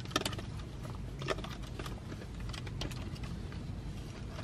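Chewing a crunchy taco shell: scattered crunches and crackles, over a low steady hum of the car cabin.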